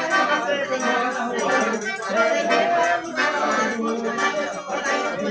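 Festive accordion music with a shaker keeping a steady rhythm.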